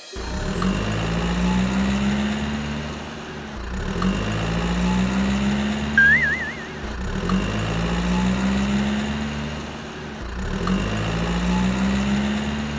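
Vehicle engine sound that rises in pitch and repeats in an even loop about every three and a half seconds, with a click at each repeat and a short warbling whistle about halfway through.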